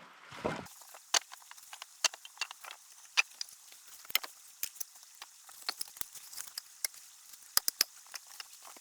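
Footsteps through the woods with small twigs snapping underfoot: scattered sharp clicks and cracks, about one or two a second, irregular and faint.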